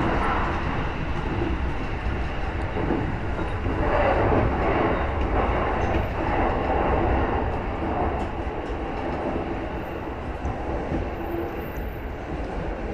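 A JR East E233-1000 series electric commuter train running along the track, a steady noise of wheels and motors heard from inside the front car, easing off slightly towards the end.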